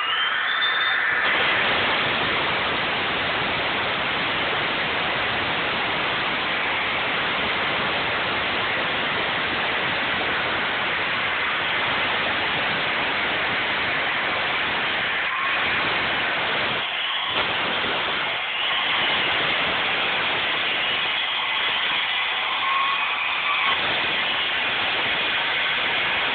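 Hilti power saw spinning up and then cutting continuously, a steady noisy whine that dips briefly a few times as the cut goes on.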